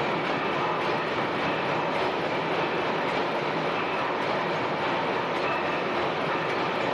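Several large Snow tandem natural-gas pumping engines running together under full load, a steady dense mechanical din with a faint rapid rhythm of strokes and valve gear.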